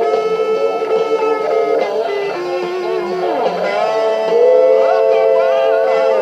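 Electric guitar playing a lead line with bent, gliding notes, settling into a long sustained note about four seconds in.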